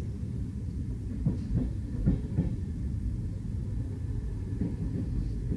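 Passenger train running along the track: a steady low rumble, with a quick run of wheel clacks about a second in.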